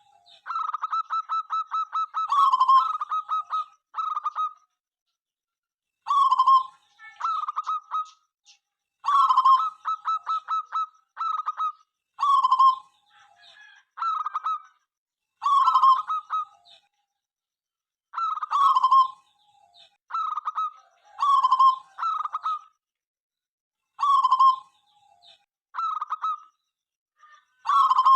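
Zebra dove (perkutut) cooing over and over: each phrase is a quick run of pulsed notes ending in a lower, drawn-out coo, repeated every two to three seconds.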